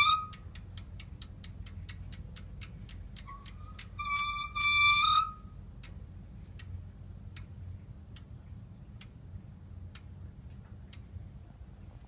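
Rear wheel of a gearless city bike turning and ticking in an even rhythm that gradually slows, with one loud high-pitched squeal about four seconds in, lasting roughly a second. The squeal is the intermittent noise the owner attributes to the band brake rubbing on a slightly bent rear rim, which greasing the hub did not cure.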